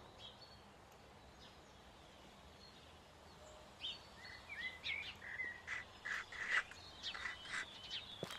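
Small birds chirping and calling over a faint steady hiss, the quick chirps starting about four seconds in and coming thickly after that. A single footstep on paving stones lands near the end.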